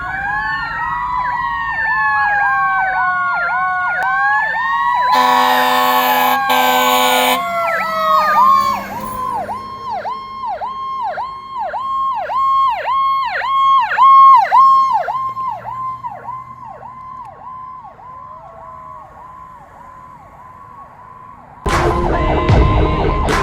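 Sirens of a 1982 Hahn fire engine responding: wailing electronic sirens together with a Federal Q2B mechanical siren whose pitch rises and then slowly falls as it winds down. Two loud horn blasts come about five seconds in. A fast-pulsing electronic siren tone follows and fades away, and music comes in near the end.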